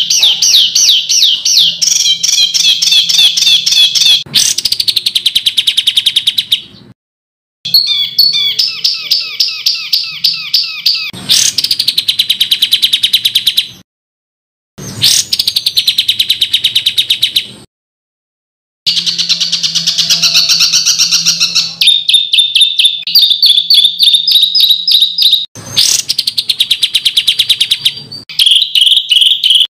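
Songbird tutor recording of harsh, loud songbird calls: fast runs of sharp repeated notes and rattling trills, the 'rough shots' used to teach competition birds. It is cut into segments, broken three times by abrupt gaps of dead silence.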